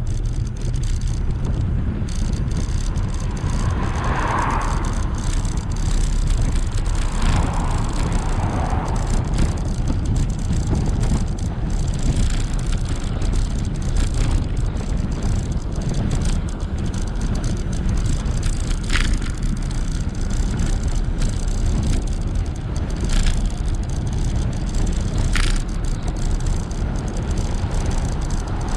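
Steady low rumble of wind and tyre noise from a ridden e-bike, with a few short sharp rattles spread through.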